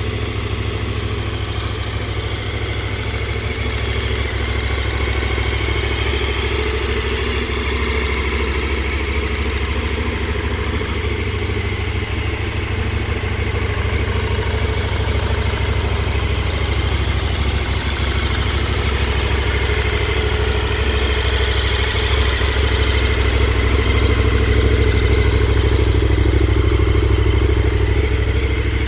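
KTM 1290 Super Adventure S's V-twin engine idling steadily, growing a little louder near the end.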